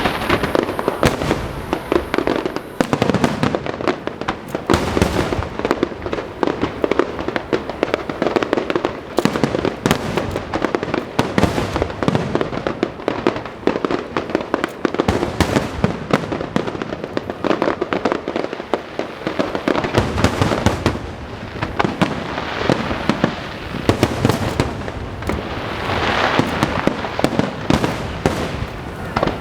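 Aerial fireworks display in full barrage: shell bursts and crackling follow one another without a break, many bangs every second.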